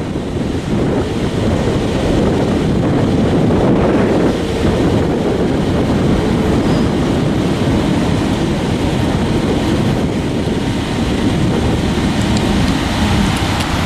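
Mixed freight train's cars rolling past with a steady rumble, wind buffeting the microphone.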